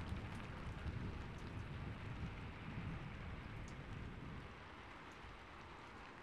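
Steady rain with scattered drops tapping, over a low rumble of distant thunder that fades out about four and a half seconds in.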